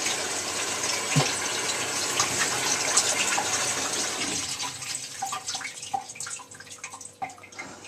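Water gushing into a Zanussi washing machine during a rinse, thinning out about four seconds in to trickling and drips.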